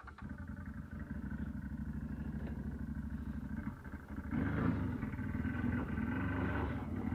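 CFMoto CForce 800 ATV's V-twin engine running steadily at a low speed. About four seconds in it revs up louder for a couple of seconds, then eases back.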